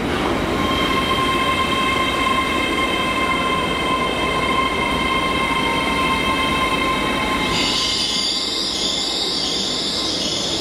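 Great Western Railway Class 800 Intercity Express Train running past along the platform. A steady high-pitched squeal of several tones sounds over the running noise for most of the passage. About three-quarters of the way through it gives way to a higher wavering hiss.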